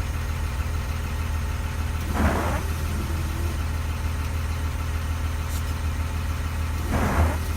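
School bus engine idling steadily, with two brief swishes about five seconds apart.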